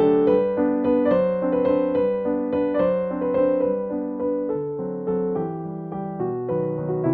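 Background music: a gentle piano piece, notes struck about two a second.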